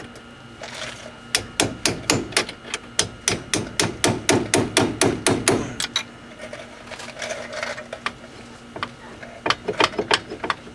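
Metal-on-metal hammering: a 3/8-drive gear wrench used as a hammer, striking a flat chisel in quick blows about four or five a second for several seconds. After a pause come a few more blows near the end. The chisel is driving out a stuck screw on the wheel hub assembly.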